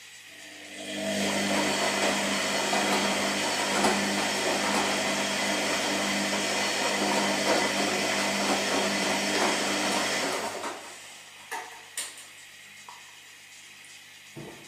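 Washing machine running: a loud rushing, whirring noise over a steady motor hum starts about a second in, lasts about ten seconds and then stops, leaving a low hum and a few clicks.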